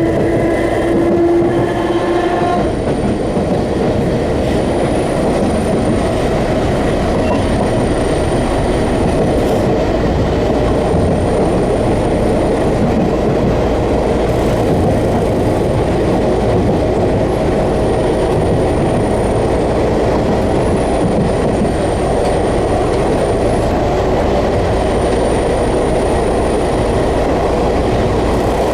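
Enshu Railway Type 30 electric train running, heard from inside the car. A rising whine stops a couple of seconds in, then there is steady wheel and track running noise.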